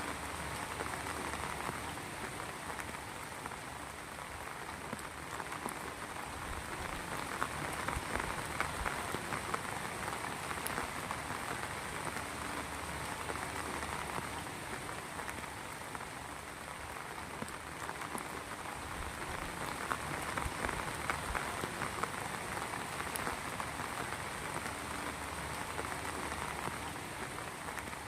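Rain falling steadily: a dense, even hiss of many drops with fine patter, swelling and easing slightly in strength.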